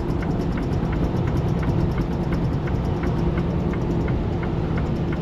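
Semi-truck engine running steadily, heard inside the cab, with the turn signal ticking evenly, a little under three ticks a second, as the truck changes lanes for the exit.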